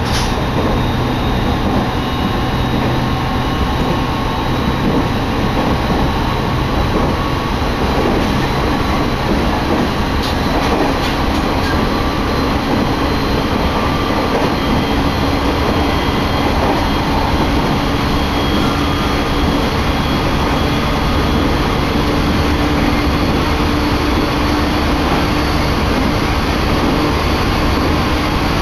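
Running noise of an electric commuter train heard from inside the carriage: a steady rumble of wheels on the rails, with a low hum that creeps slowly up in pitch in the second half and a few faint ticks about ten seconds in.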